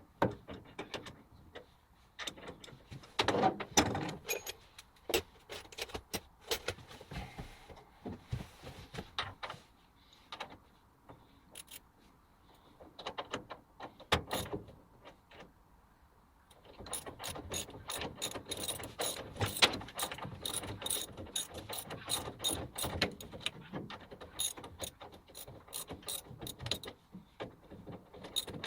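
Metal parts of a Sheldon lathe clicking and clanking as they are worked by hand: scattered knocks at first, then a fast, busy run of clicks from a little past halfway.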